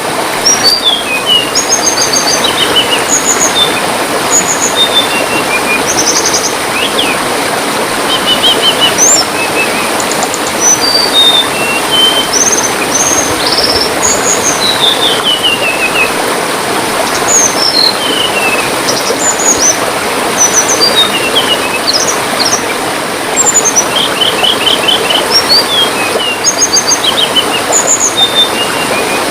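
Small songbirds chirping repeatedly, many short high notes and quick falling runs of notes, over a steady rush of trickling water.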